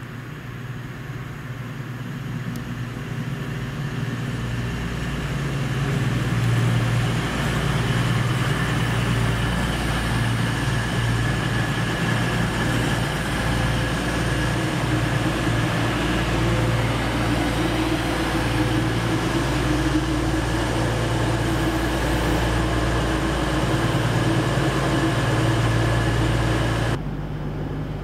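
Diesel passenger train running along the station platform: engine and rail noise build over the first several seconds, then hold loud and steady with a low engine drone, and cut off abruptly near the end.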